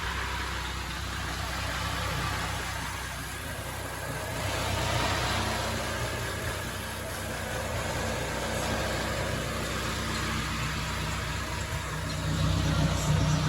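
Car engine idling steadily, a little louder near the end.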